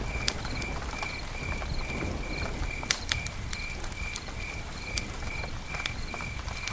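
Campfire burning with a low steady rumble and scattered sharp crackles and pops from the burning wood. A high chirp repeats evenly about twice a second behind it.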